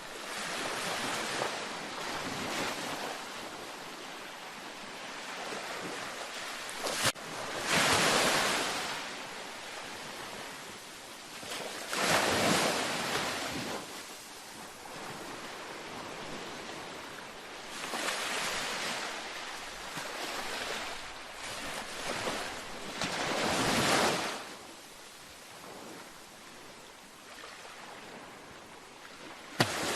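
Gentle ocean waves breaking on a beach, a surge of surf every four to six seconds with a softer wash between. There is a brief sharp click about seven seconds in.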